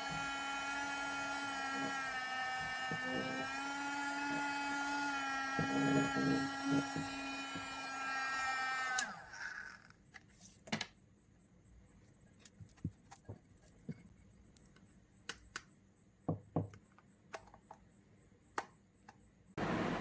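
Small DC motor of a homemade mini vacuum cleaner running with a steady high whine and a few knocks, then spinning down and stopping about nine seconds in. After that come scattered light clicks and taps.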